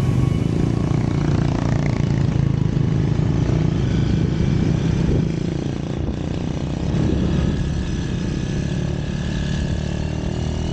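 Motorcycle taxi engine running under way with a passenger aboard, easing off a little about halfway through.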